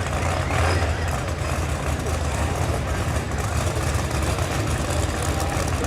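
Drag race car engine idling with a steady low rumble, with people's voices in the background.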